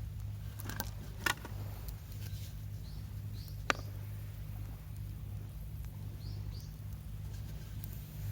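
Campfire crackling, with a few sharp pops about a second in and near four seconds, and faint high chirps now and then over a steady low hum.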